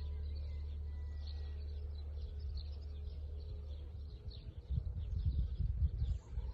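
Small birds chirping repeatedly, with short high calls over a steady low rumble. From about four and a half seconds in, irregular low thumps and buffeting join them.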